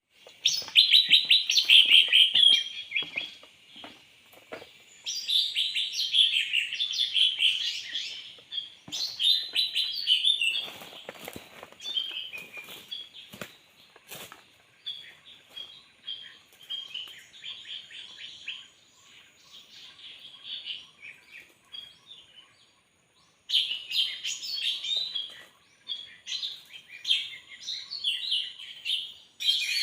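Small birds chirping in rapid, chattering bursts that come and go, with a brief pause shortly after the middle, and a few faint clicks and rustles.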